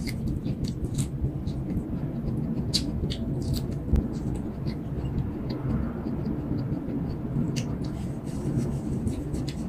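Chewing corn on the cob: a scatter of small crunching clicks from the mouth over a steady low rumble.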